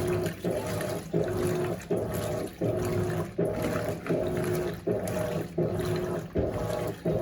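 Electrolux LAC16 top-loading washing machine agitating a full load at high water level. Its 1/4 hp WEG motor, taken from an LT13B, hums in short strokes that reverse about every 0.7 s, with water sloshing in the tub.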